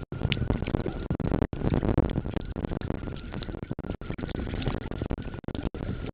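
Muffled, crackly rustling from a compact camera sealed in a plastic waterproof pouch. A faint steady whine runs under it, and the sound cuts out briefly several times.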